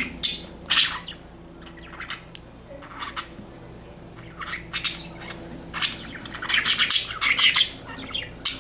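Pet budgies chirping and squawking: a few short calls at first, a quieter spell with only the odd chirp, then a busy run of rapid chirps over the last few seconds.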